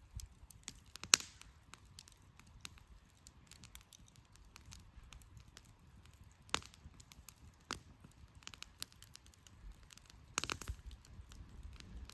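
Wood fire burning and crackling, with scattered sharp pops: a loud one about a second in and a quick cluster near the end, over a faint low rumble.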